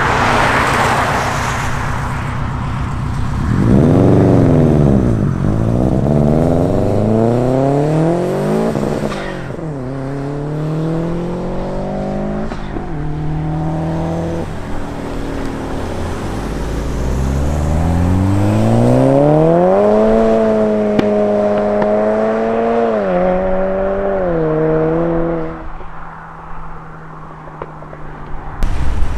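Modified cars' engines revving and accelerating as they drive off. The engine note climbs and drops over and over, with stepped drops in pitch between revs, and turns quieter near the end.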